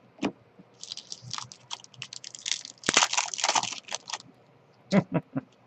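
Trading-card pack wrapper crinkling and cards clicking against each other as a pack is opened and the cards are flicked through: a sharp click at the start, then about three seconds of dense crackling and clicking, and a few more clicks near the end.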